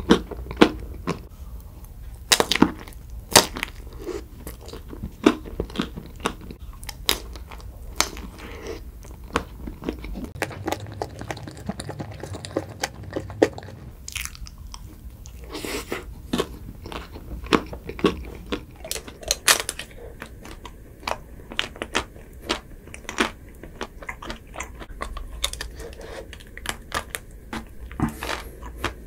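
Close-miked chewing of chocolate-coated ice cream bars, with many sharp crunches of the chocolate shell and wafer scattered irregularly throughout.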